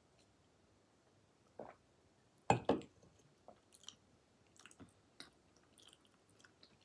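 Close-miked eating sounds: a swallow of drink, a louder mouth noise about two and a half seconds in, then soft chewing and small wet clicks of the lips and tongue.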